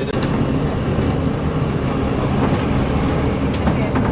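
Steady low rumble of a vehicle in motion, heard from inside, with a few faint ticks and rattles over it.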